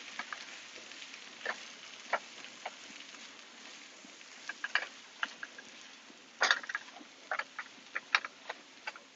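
Spinach with onions and garlic cooking down in a frying pan: a soft sizzle that fades, with scattered sharp crackles and pops, a quick cluster of them about two-thirds of the way through.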